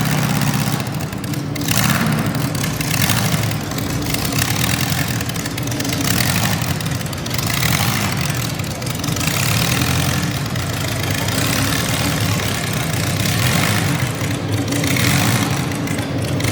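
Modified garden pulling tractor engine running loud, its level swelling and easing every couple of seconds.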